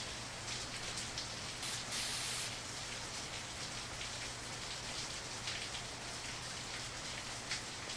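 Soft rain pattering on window glass, a steady hiss dotted with sharp drop ticks, with a brief soft swish about two seconds in.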